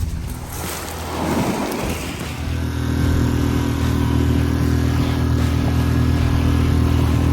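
A boat engine running steadily at an even speed, becoming clearly heard about two seconds in.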